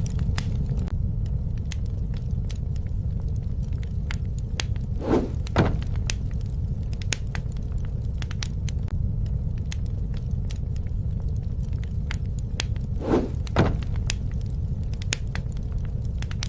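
Wood fire crackling with scattered sharp pops over a steady low rumble. Twice, about five and thirteen seconds in, a brief pair of louder sounds stands out.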